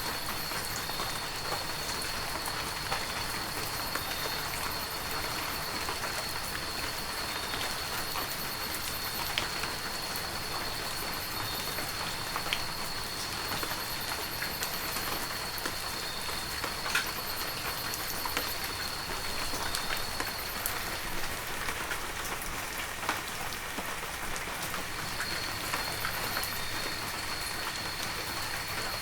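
Heavy rain falling steadily, with scattered drops ticking close by. A thin, steady high whine runs through it and drops out for a few seconds in the last third.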